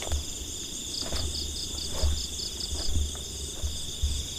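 Night insects, crickets among them, calling steadily: a continuous high trill under a faster pulsing chirp. An on-and-off low rumble on the microphone and a few faint knocks sit underneath.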